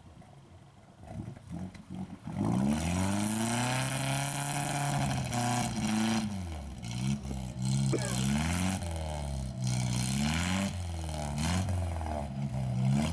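UAZ off-road vehicle's engine, quiet at first, then revving hard from about two seconds in. The revs rise and fall repeatedly, several times over.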